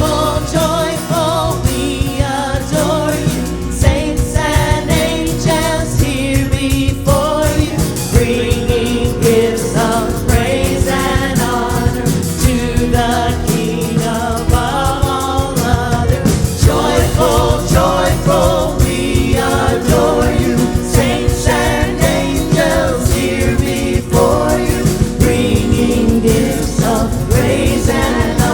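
Live Christian worship music: voices singing a melody together over a full band with a steady beat.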